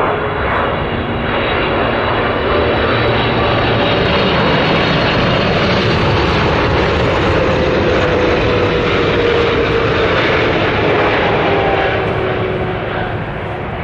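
Large jet airliner passing close by, its engines a loud, steady rush. The engine tone slowly falls in pitch as it goes past. The sound swells a couple of seconds in and eases off near the end.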